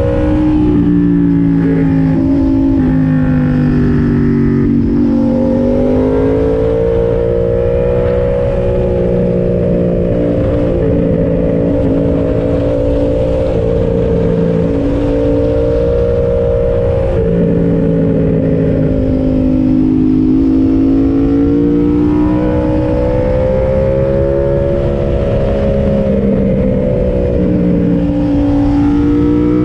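Yamaha MT-07's parallel-twin engine under way on the road, its pitch rising and falling as the rider accelerates, eases off and changes gear several times, over a steady rush of wind and road noise.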